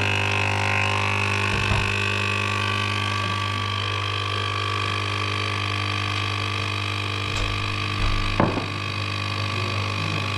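Capsule coffee machine's pump buzzing steadily while it brews a lungo, a loud, even hum. There are two short knocks, about two seconds in and near the end.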